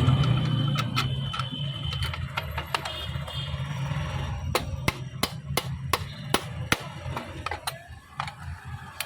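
Electric motor of a marble cutter winding down after a run, its hum fading within the first second or two. It is followed by a quick series of sharp clicks and knocks from handling the machine.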